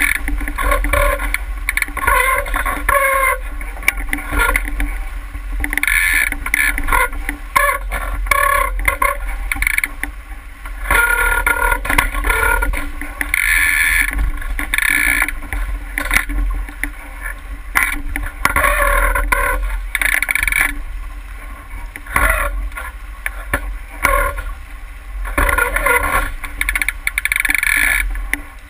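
Boat under way on the water: irregular water washing and splashing against a hull over a constant low rumble.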